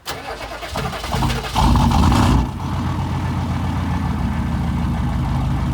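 6.5 engine running, revved up briefly about a second and a half in, then dropping back to a steady, even idle.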